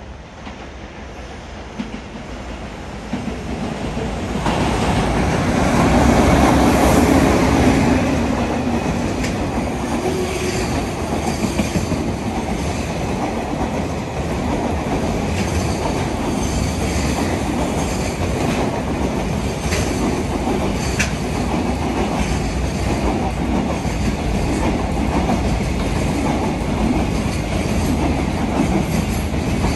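A train running along the track. Its rumble builds over the first few seconds and is loudest about six to eight seconds in. Then comes a long, steady run of wheels clicking over rail joints.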